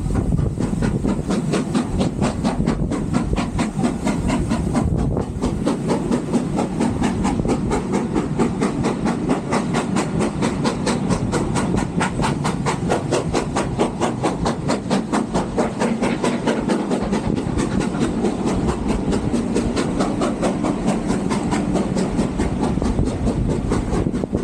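Steam locomotive working steadily, its exhaust chuffing in a rapid, even beat with hiss, over the rumble of the carriages on the rails.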